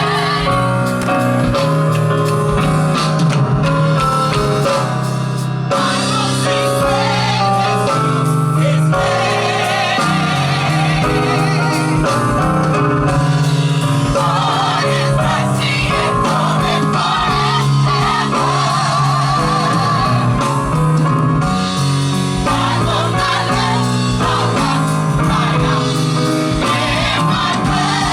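Live gospel music: singers with electric guitar, bass and drum kit playing a steady beat.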